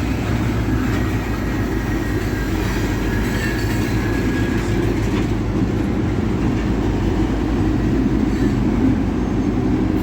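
Freight train of loaded rock hopper cars, led by a diesel locomotive, rolling through a grade crossing: a steady low rumble of wheels on rail, growing a little louder toward the end.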